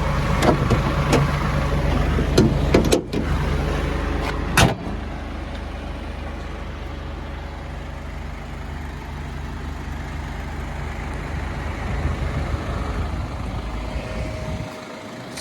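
Mazda Bongo Friendee's 2.5-litre turbo diesel idling, with clicks and knocks of handling in the first few seconds. The engine cover is pushed down and shuts with one loud thump about four and a half seconds in, after which the idle carries on more quietly.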